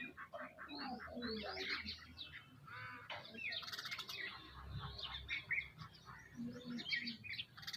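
Many birds chirping and calling at once, short overlapping chirps and call notes throughout.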